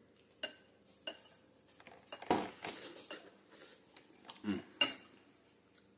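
Metal cutlery clinking and scraping against a dish while eating: several sharp clinks with a brief ring, the loudest about two seconds in.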